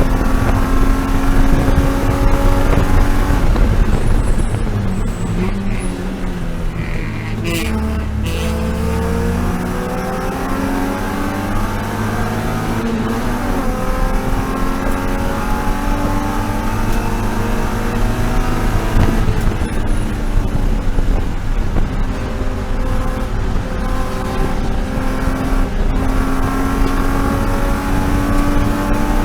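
BMW E36 M3 race car engine at full racing effort, pitch climbing under acceleration with breaks at upshifts, then dropping away as the car brakes and downshifts, twice.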